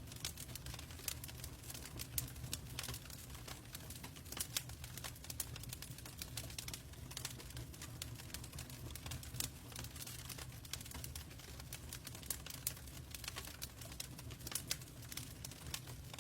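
Log fire crackling in a fireplace: irregular sharp pops and snaps, several a second, over a steady low rumble.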